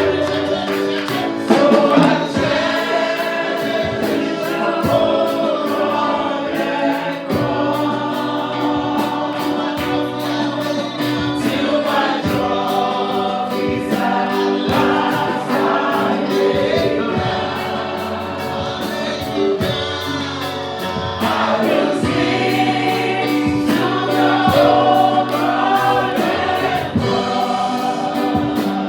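Gospel praise-and-worship music: voices singing together over held instrumental chords and a steady beat.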